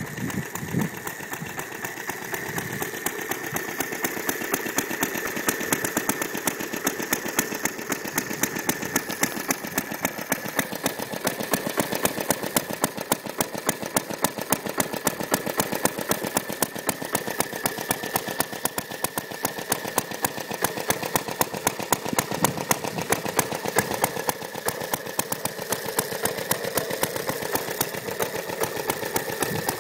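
Briggs & Stratton FI single-cylinder engine of a 1929 Moto-Mower reel mower running steadily, a rapid even string of firing strokes.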